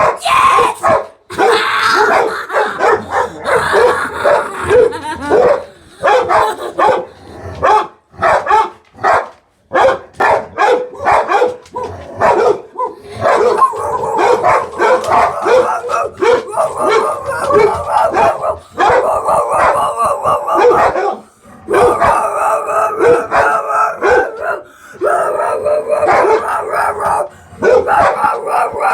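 Dogs barking, yipping and howling almost without pause, with only short breaks.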